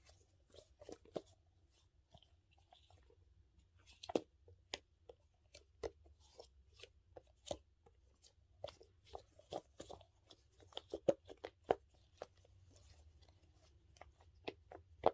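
Dumpling-shaped squeeze toy being kneaded by hand, making quiet, irregular sticky crackles and clicks.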